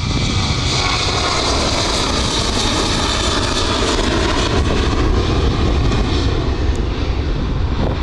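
Airliner's engines running loud as it passes by, a whine in the noise sliding slightly down in pitch a few seconds in, with wind rumbling on the microphone.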